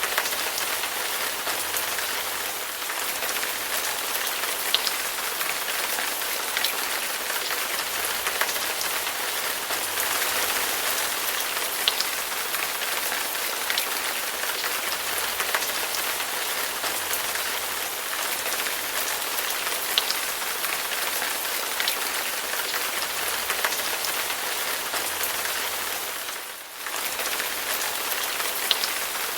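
Heavy rain falling steadily, with individual drops ticking sharply through the even hiss. The sound dips briefly for a moment near the end, then carries on as before.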